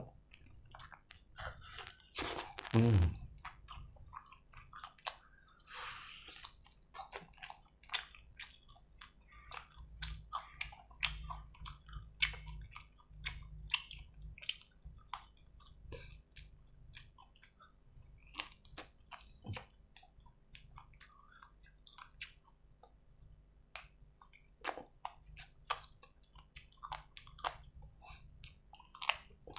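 Close-miked chewing and biting of fried chicken wing, with many small wet mouth clicks and smacks as the meat is picked off the bone. There is one louder burst about two to three seconds in.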